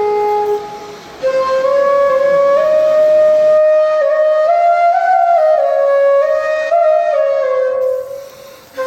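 Background music: a flute-like wind instrument playing a slow melody of held, stepping notes, dipping briefly about a second in and fading near the end.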